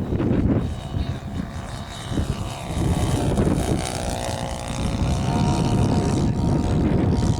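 Wind buffeting the microphone, with the whine of a radio-controlled model warbird's motor and propeller coming in after about three seconds and stepping up in pitch a little after five seconds.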